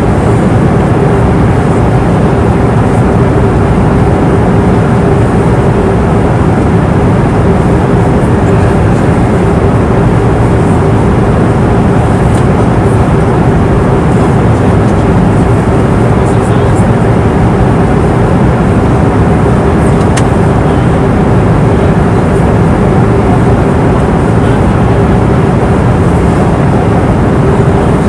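Airliner cabin noise in flight: a steady low roar of engines and airflow, with a constant hum running through it.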